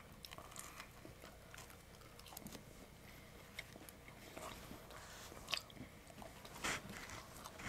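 Two people chewing mouthfuls of pizza: faint, scattered chewing clicks and smacks, with a couple of louder ones a little past the middle.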